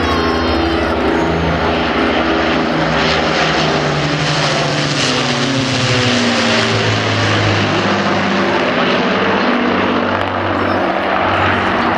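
Avro Lancaster bomber flying past, its four Rolls-Royce Merlin piston engines running loud and steady. The engine note drops in pitch about halfway through as the aircraft passes.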